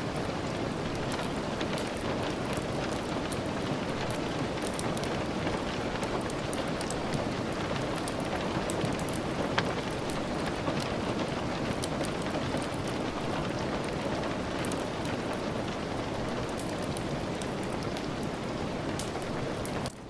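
Steady rain falling, an even hiss of drops dotted with many small sharp ticks, and one louder click about ten seconds in.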